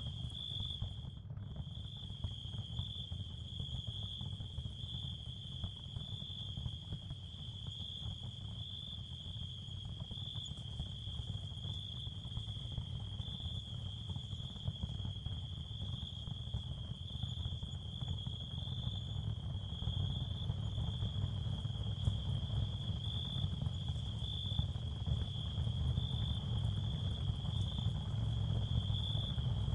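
Steady, high-pitched cricket chorus with a slight pulsing, over a continuous low rumbling noise bed: an ambient sound-therapy track. The high chirring drops out for an instant about a second in.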